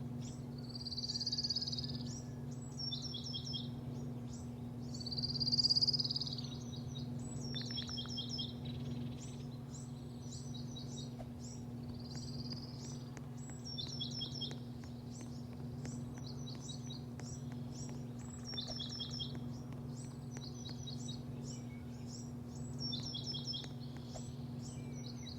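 Small birds chirping in quick series of four or five high notes, repeated every second or two, over a steady low machine hum. Two brief hissing bursts come through, the louder one about five seconds in.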